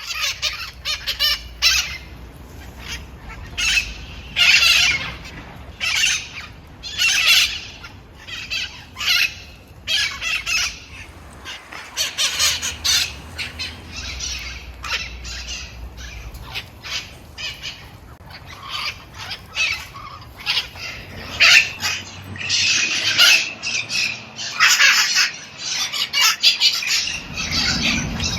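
A flock of parrots squawking: many short, harsh calls, irregular and overlapping, coming thick and fast throughout.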